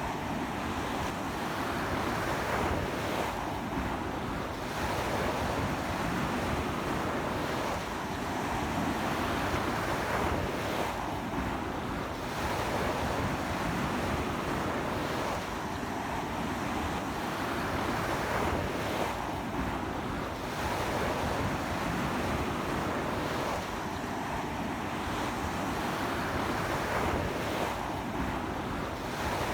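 Sea waves breaking on a beach in strong wind: a continuous wash of surf that surges every few seconds.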